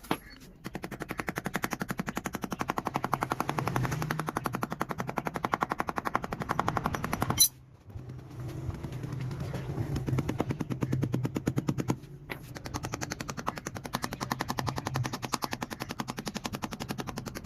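A machine making a rapid, even rattle of sharp pops, roughly ten a second, over a low hum. It comes in three long runs, stopping briefly about seven and a half and twelve seconds in.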